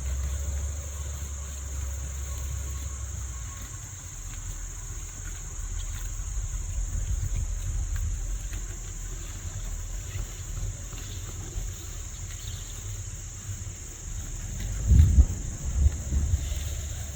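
Steady high-pitched chorus of insects, with wind buffeting the microphone in low rumbles that come in stronger gusts near the end.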